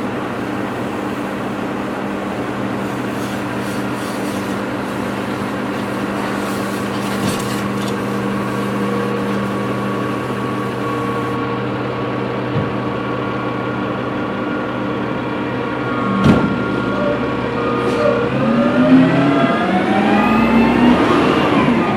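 Recycling truck engine idling steadily, a single sharp knock about two-thirds of the way through, then the engine revving up with a rising, wavering pitch near the end.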